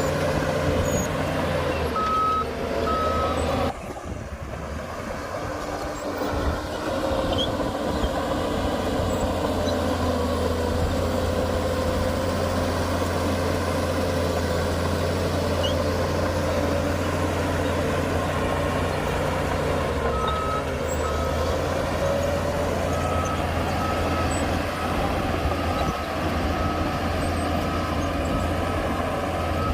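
Heavy diesel earthmoving machinery running steadily under load. A reversing alarm beeps twice about two seconds in, then beeps again repeatedly in the last third.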